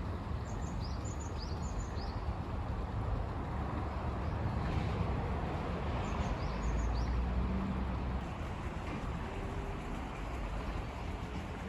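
Outdoor ambience: a steady low rumble, with short high bird chirps in quick clusters in the first two seconds and again about six seconds in.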